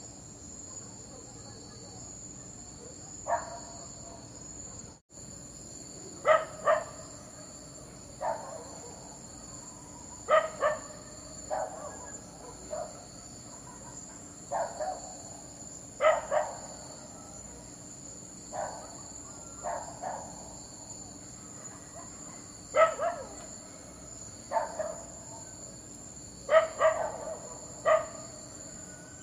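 A dog barking in short single and double barks at irregular intervals, about fifteen in all, over a steady high drone of chirping insects.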